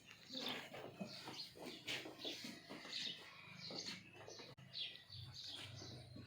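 Small birds chirping in short repeated calls, several a second.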